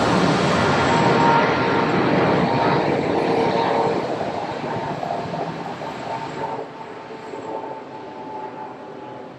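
Jet airliner's engines, loud for the first few seconds with a steady whine mixed into the roar, then fading away steadily as the aircraft moves off.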